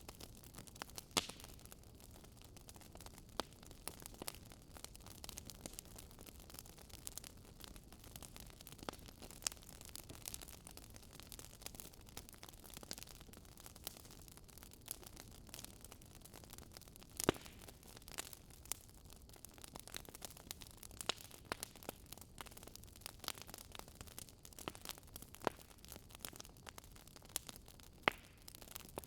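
Wood fire crackling: irregular sharp pops and snaps over a faint steady hiss, with a few louder pops about a second in, past the middle and near the end.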